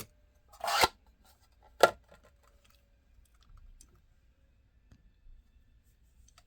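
Handling of a diecast model car's plastic packaging: a short rustle, then a sharp click about two seconds in, followed by faint small handling noises.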